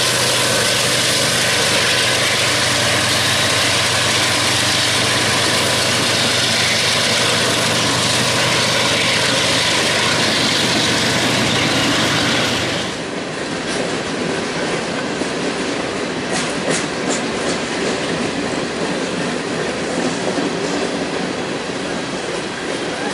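Union Pacific freight train passing: diesel locomotives go by with a steady engine drone over loud wheel and rail noise. About 13 seconds in it turns quieter, as freight cars roll past with wheels clicking over rail joints.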